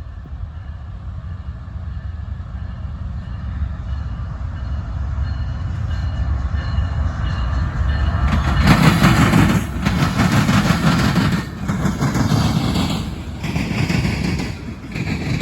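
A train approaching and passing close by: a low rumble grows steadily louder for about eight seconds, then the train goes by loudly with a pulsing rhythm of wheels on rail.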